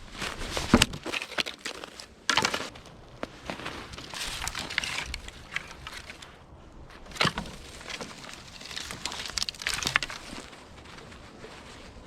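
Dry wood cracking and rustling in irregular sharp snaps, the loudest about a second in, with further loud snaps at about two and seven seconds.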